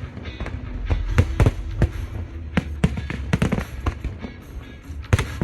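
Aerial fireworks bursting: about a dozen sharp bangs at irregular intervals over a low rumble, with music playing underneath.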